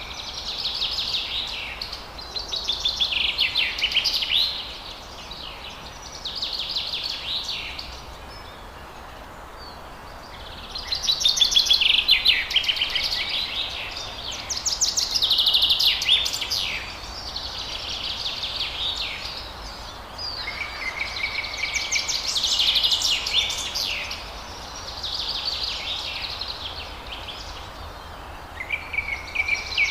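Forest birds singing: about ten high song phrases, each a fast run of rapid notes lasting a second or two, with short pauses between them and a few phrases opening on a brief steady whistle. A steady background hiss runs underneath.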